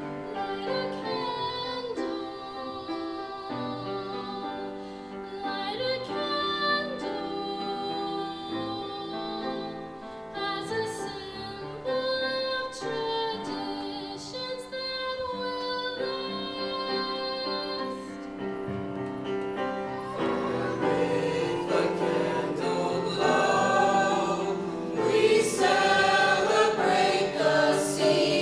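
High school choir singing with the concert band playing along, in sustained, held chords. The music swells louder about two-thirds of the way through.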